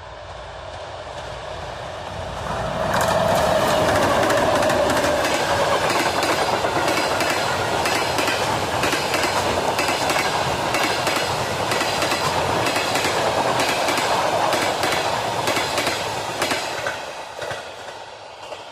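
An express passenger train hauled by a 2M62 two-section diesel locomotive passes at speed. The locomotive swells in about three seconds in, then a long stretch of coaches clatters over the rail joints with rapid clicking. The sound fades near the end as the train goes by.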